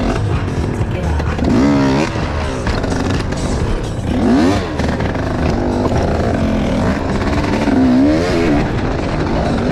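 Enduro motorcycle engines running, with the revs rising and falling three times.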